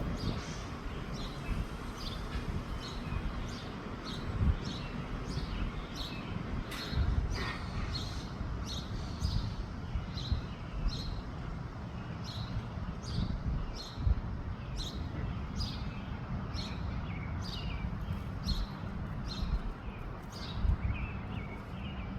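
Small birds chirping: short high chirps repeating about once or twice a second, over a low rumble of wind on the microphone.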